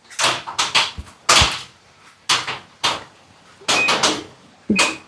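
A series of irregular thuds and knocks, about nine in a few seconds, the heaviest two a little over a second in.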